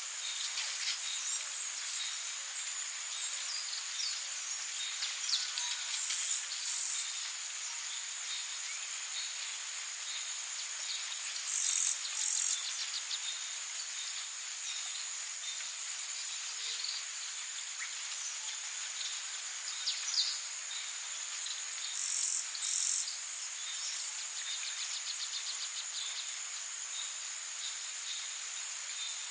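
Tropical rainforest ambience: a steady, high insect chorus of cricket-like trilling over a hiss. Three times, a louder, very high double buzz breaks in, each a pair of short pulses.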